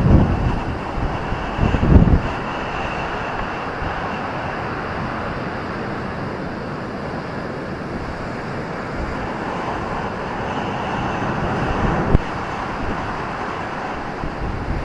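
Ocean surf on a beach, a steady roar of breaking waves. Wind buffets the microphone with low thumps at the start and again about two seconds in.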